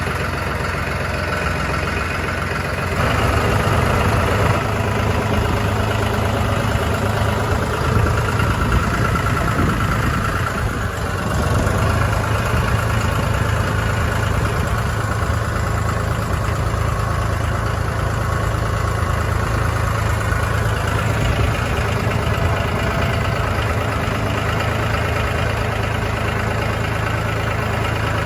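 Tractor engine running steadily, getting louder about three seconds in.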